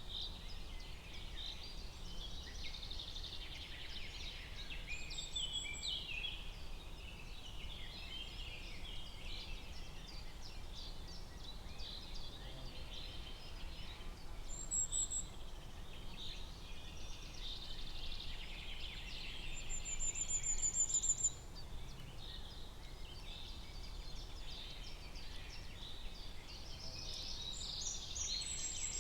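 Forest bird chorus: many birds chirping and singing continuously over a steady low background hum. A high, rapid trill about two-thirds of the way through is the loudest call.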